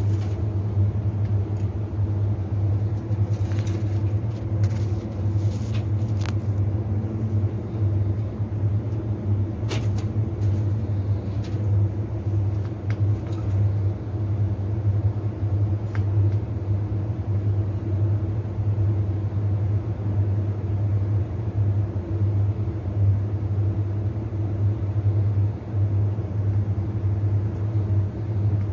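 Steady low rumbling hum throughout, with a few short faint clicks in the first half.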